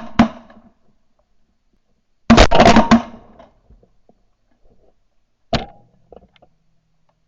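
A few loud, sharp knocks or bangs: two right at the start, a dense cluster of strikes about two seconds in, and one more about five and a half seconds in.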